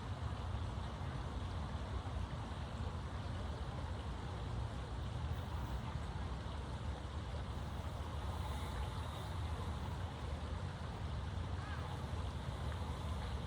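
Steady low rumble with an even hiss above it: outdoor background noise with no distinct events.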